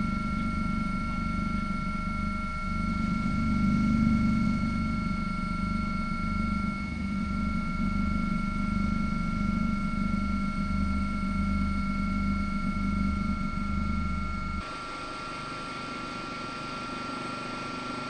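Steady mechanical drone: a low, evenly pulsing rumble under two steady whining tones. The low rumble drops away abruptly near the end, leaving the whine.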